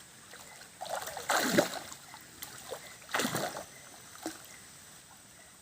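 Splashing in shallow river water from someone searching the riverbed for river clams. There are two main splashes, the loudest about a second and a half in and another about three seconds in, with a smaller one near four seconds.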